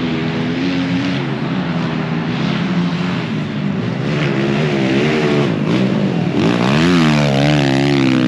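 Several pit bike engines racing together, their pitch rising and falling as the riders work the throttles through the turns. One bike accelerates hard and gets louder over the last couple of seconds.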